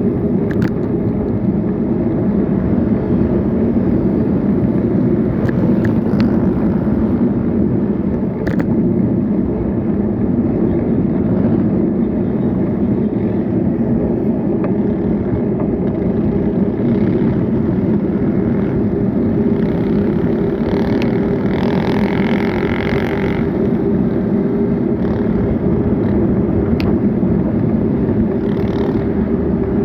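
Steady rush of wind and road noise while riding a bicycle through traffic, with a few brief clicks. A motor vehicle passes for a couple of seconds about two-thirds of the way in.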